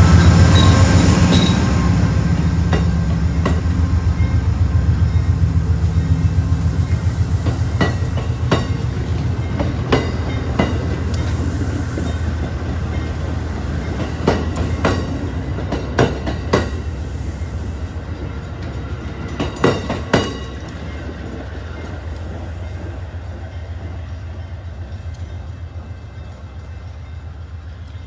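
A passenger train's locomotive running past with a low hum, then its coaches' wheels clacking over rail joints in irregular clusters as the train pulls away. The hum and the clacks fade steadily as it recedes.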